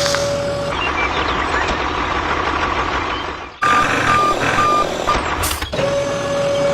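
Vehicle backup alarm over machine noise: a steady held tone that stops under a second in and comes back near the end, with three quick higher beeps a little past the middle.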